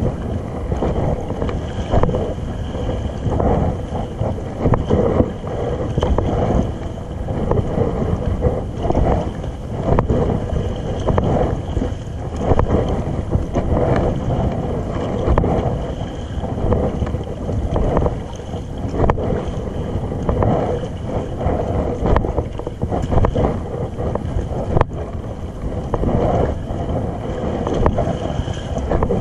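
Wind buffeting the microphone over water moving around a kayak at sea, swelling and easing every second or two.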